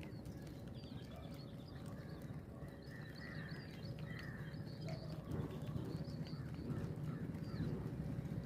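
Small birds chirping, many short faint calls over a low rumbling background.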